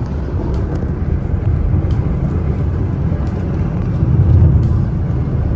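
Steady low road and engine rumble inside a moving car, swelling slightly about four seconds in.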